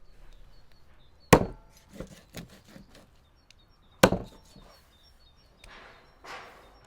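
Two heavy chopping blows of a blade into wood, about three seconds apart, each followed by a few lighter knocks. Softer swishing or scraping sounds follow near the end.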